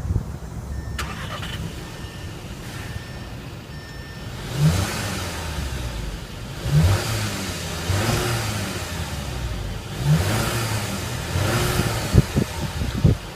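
2015 Audi A3's 1.8-litre TFSI turbocharged four-cylinder engine idling, then revved in about five short throttle blips. Each blip rises sharply and falls back to idle.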